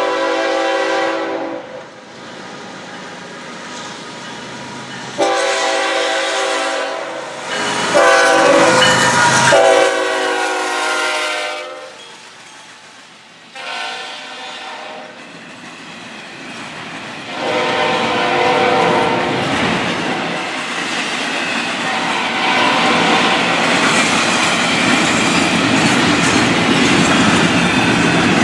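Diesel locomotive air horn sounding a series of blasts, long ones and shorter ones, as the train approaches, then the train passing close by with steady rumble and wheel clatter on the rails growing louder toward the end.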